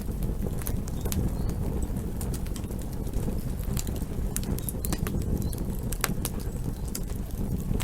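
Campfire burning: a steady low rumble of flames with irregular sharp crackles and pops.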